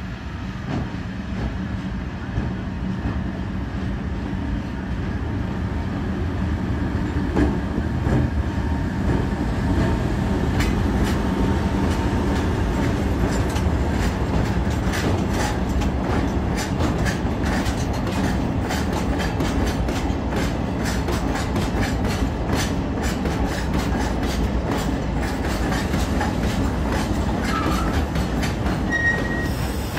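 A Chichibu Railway freight train passes close by: its electric locomotive comes up with a rising rumble, then a long string of loaded limestone hopper wagons rolls past in a steady rumble with rapid clickety-clack of wheels over the rail joints.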